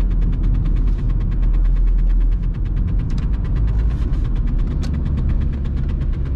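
Cabin sound of a VW Golf Mk3 1.9 TDI diesel driving, with a steady low engine and road rumble. Over it runs a rapid, regular clicking, about nine a second, like a card flapping in bicycle spokes. This is the sign of the handbrake cable rubbing the rear tyre.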